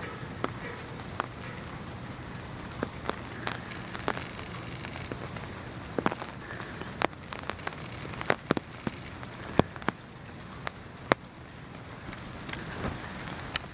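Rain falling steadily, with many sharp, irregular drops striking close by.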